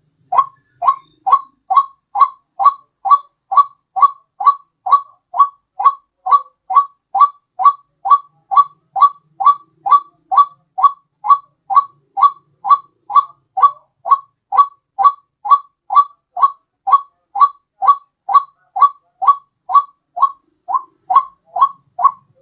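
White-breasted waterhen calling: a loud, steady run of short, clipped notes, about two a second, repeated without a break, as played for a bird-catching lure.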